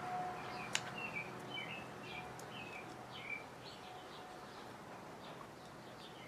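Faint background chirping of small birds, short calls repeating irregularly throughout, with a single sharp click about three-quarters of a second in.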